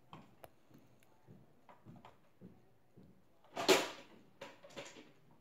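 Faint, irregular chewing of a mouthful of sticky chewy candy, with a short loud vocal sound about two thirds of the way through.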